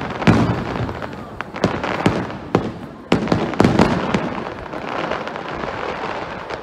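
Aerial firework shells bursting: a rapid string of sharp booms, about eight in the first four and a half seconds, each with an echoing tail. The sound then dies away more slowly over the last two seconds.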